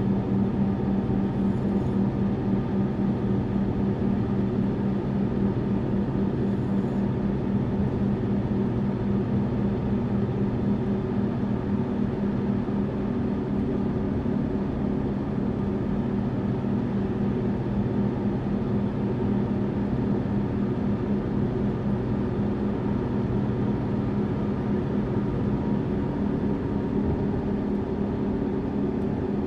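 Tourist bus engine running at an even, unchanging hum, with a strong steady low tone and no change in pitch.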